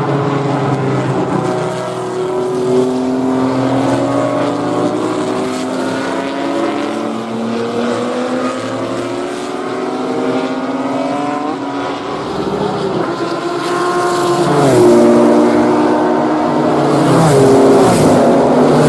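A vintage race car engine under full throttle, its pitch climbing slowly on a long pull for about ten seconds. In the second half the revs fall sharply and build again twice as the car brakes, shifts and accelerates.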